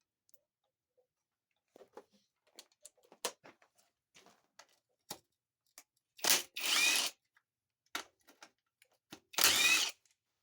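A power tool with a half-inch socket running in two short bursts, each with a rising whine, as it spins out the oil pan bolts on a TH400 transmission. Light clicks and taps of the socket and tools come before the first burst.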